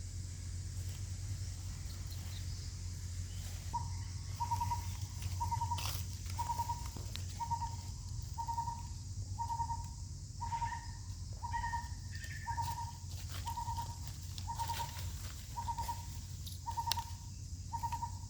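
A bird calling a long series of short notes at one steady pitch, about two a second, starting a few seconds in, over a steady low hum with a few faint clicks.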